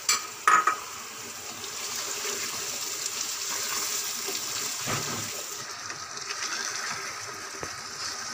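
Mutton and green peas sizzling in yogurt masala in a frying pan, stirred with a plastic spatula: a steady frying hiss, with two short knocks in the first second.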